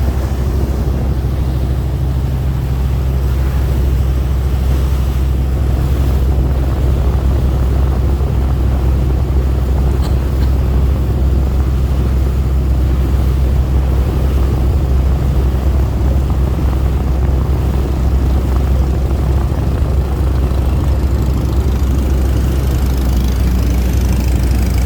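Tugboat's engine running steadily underway, an unchanging low drone heard from on board.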